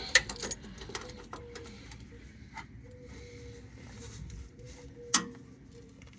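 Scattered metal clicks and knocks of a wrench working a tight oil drain plug loose, the loudest near the start and about five seconds in, over a faint steady hum.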